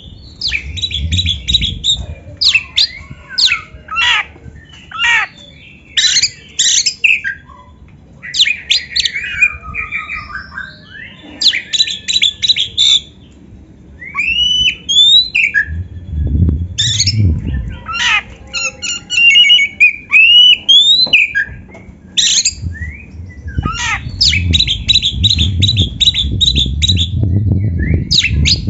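Oriental magpie-robin (kacer) singing a varied song of clear rising whistles, rapid trills and harsh, scratchy notes, in phrases broken by short pauses.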